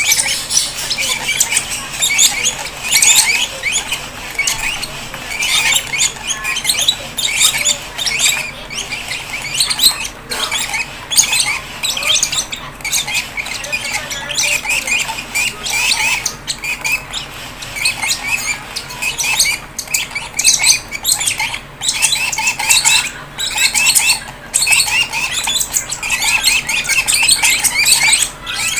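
Fischer's lovebird chicks giving rapid, continuous squawky begging calls while being hand-fed.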